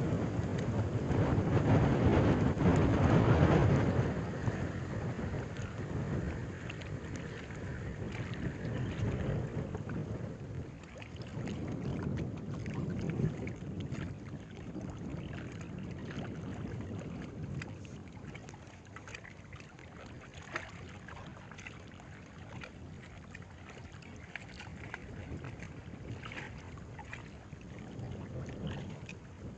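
Wind buffeting the microphone, a loud low rumble for the first four seconds that then eases into a steadier, quieter outdoor rush with faint scattered clicks.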